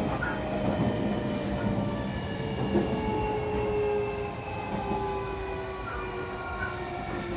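Onboard sound of a JR Kyushu 305-series electric train: its VVVF inverter whine, several steady tones stepping gradually lower over wheel and rail rumble. The train is slowing for a station stop, and the sound fades a little as it slows.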